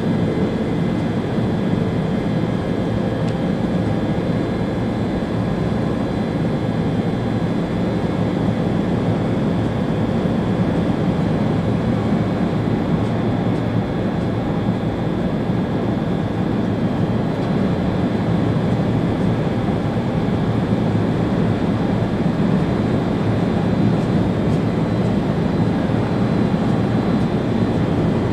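Steady running noise of an ÖBB Railjet high-speed train heard from the driver's cab: a continuous low rumble with faint steady high whines.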